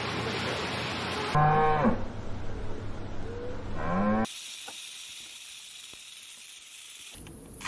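Holstein cow mooing twice, the second moo rising in pitch, over steady background noise. The sound then cuts off suddenly to a faint background.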